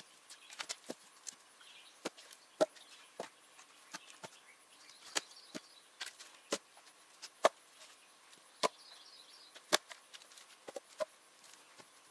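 Split birch logs knocking against each other as they are laid onto a firewood stack: irregular, sharp wooden clacks, a few much louder than the rest. Faint birdsong chirps now and then.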